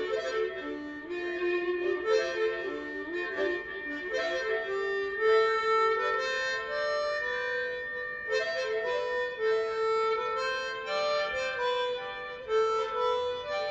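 Harmonica playing a blues melody, stepping quickly from note to note with some held notes.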